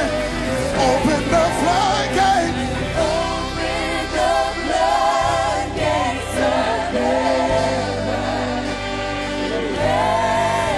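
Gospel music: voices singing, choir-like, over a band with a steady bass line.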